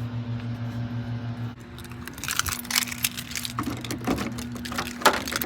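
Keys jangling, with sharp clicks, rattles and knocks from about two seconds in, over a low steady hum that drops down about one and a half seconds in.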